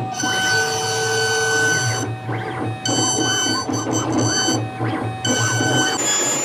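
CNC router's stepper motors whining as the machine traverses, the pitch switching every second or so as each move starts and stops. Near the end a steady high whine takes over.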